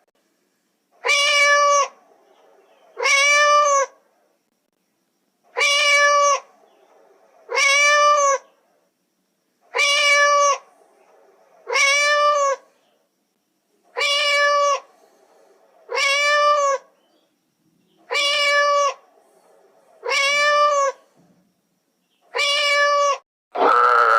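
Cat meowing: eleven identical meows about two seconds apart, each under a second long and rising then falling in pitch.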